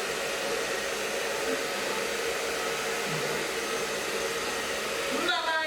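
Handheld hair dryer running steadily, an even rush of air with a steady hum, as used to blow-dry wet fur.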